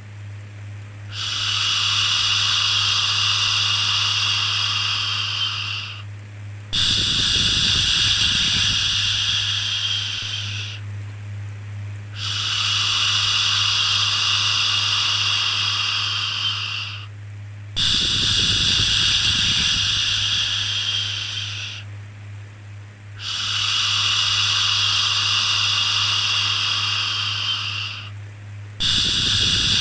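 Drawn-out 'shhh' shushing sound, each shush lasting four to five seconds with a short pause between, repeating about every five and a half seconds, over a steady low hum.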